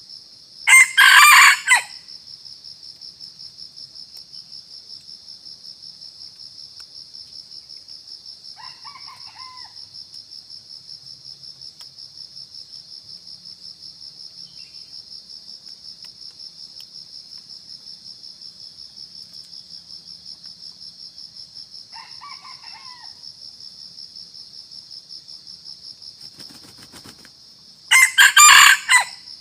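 Red junglefowl crowing: two loud, short crows, one about a second in and one near the end, with two much fainter crows in between. A steady, pulsing, high-pitched cricket chirring runs underneath.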